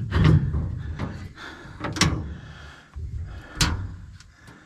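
Three knocks and clunks, about one and a half to two seconds apart, with low rumbling handling noise between them, as a person shifts about in the seat of a stripped dirt-track race car.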